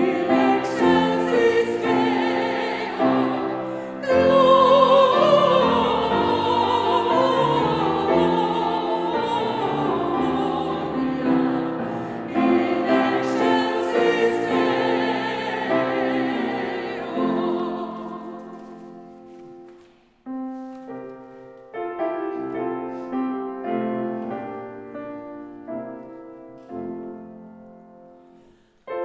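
Voices singing a Christmas carol in chorus with piano accompaniment; about eighteen seconds in the singing stops and the piano plays on alone, separate notes each fading away, as an interlude into the next carol.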